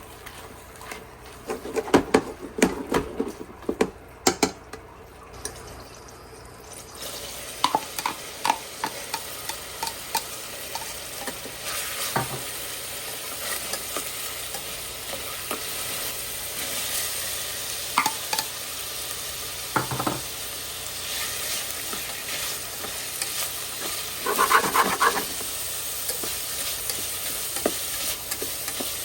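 Food frying in a pan, sizzling steadily, while a utensil stirs and knocks against the pan. The first few seconds are mostly clatter; the sizzle builds about seven seconds in, with a burst of scraping and clatter near the end.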